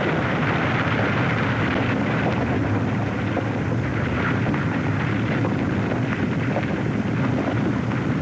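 Avalanche: a steady, heavy rumble and rush of sliding snow.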